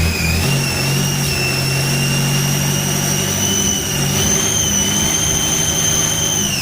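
Hyundai D4BB 2.6-litre four-cylinder diesel engine running on a test start, held above idle, with a high whine over the engine note that lifts slightly about four seconds in.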